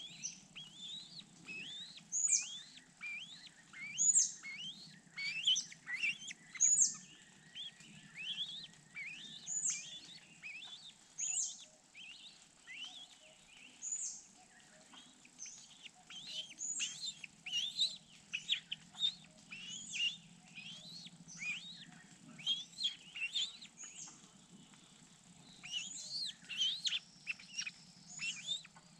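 Birds chirping: a steady stream of short, high calls, many of them sliding down in pitch, coming several a second, thickest near the end.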